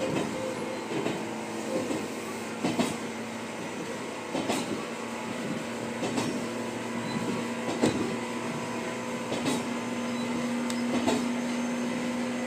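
Echizen Railway electric train running, heard from the driver's cab: a steady rumbling hum with sharp clacks about every second and a half as the wheels pass rail joints. A steady motor tone grows louder in the last few seconds.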